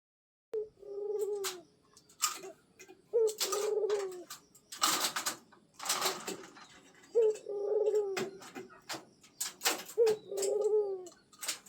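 Pet puter turtle dove cooing four times, each coo a short higher note falling into a longer held note. Loud sharp rustling noises fall between the coos.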